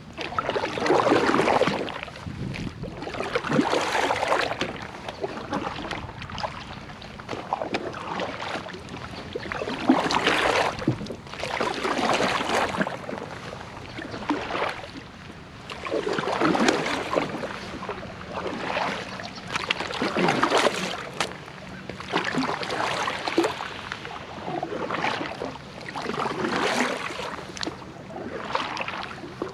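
Water rushing and splashing against a kayak hull in swells that come and go every two to three seconds.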